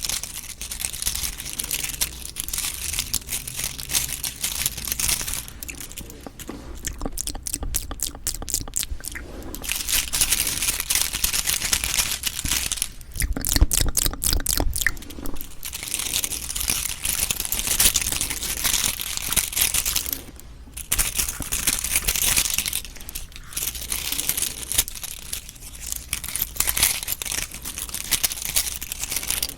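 Close-miked eating of Cheonhyehyang citrus cup jelly: a steady run of crackly, squishy mouth and jelly sounds, with two stretches of fast, evenly spaced clicks, one a few seconds in and one near the middle.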